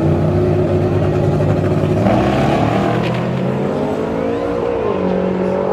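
Truck engine revving hard in a burnout pit. The pitch climbs sharply about two seconds in, with a hiss of tyre noise, then dips briefly and holds high again.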